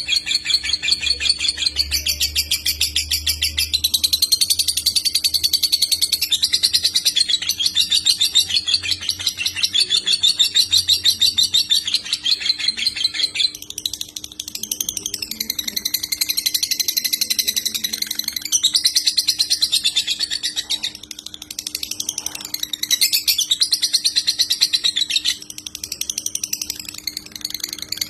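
Lovebird singing in long, rapid, chattering trills, the continuous 'konslet' style prized by Indonesian lovebird keepers, broken by brief pauses a few times. A faint steady hum runs underneath.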